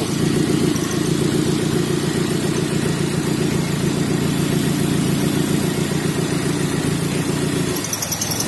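Nissan SR20 2.0-litre inline-four engine idling steadily on a test stand, running on its factory wiring. The level dips briefly near the end.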